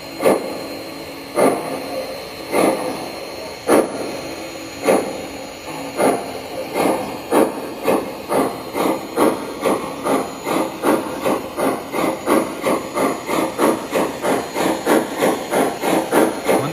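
Steam-locomotive chuffing from the sound system of an MTH Premier Dreyfuss Hudson model locomotive, over a steady hiss. The chuffs quicken from about one a second to about four a second as the engine speeds up. It plays through a speaker mounted in a homemade balsa-wood enclosure, which gives it a deep bass note.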